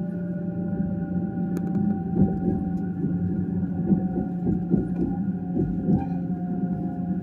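Electric train running slowly, heard from inside the carriage: a steady low rumble with a motor whine whose tones drift slowly downward, and a few sharp knocks from the running gear.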